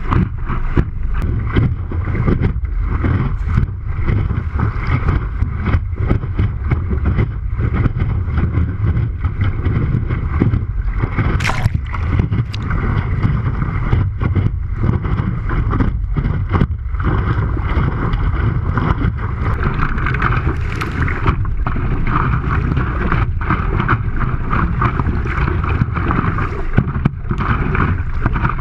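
Strong wind battering a GoPro's microphone with a heavy, continuous rumble while a windsurfer sails at speed in high wind, with water rushing and hissing under the board.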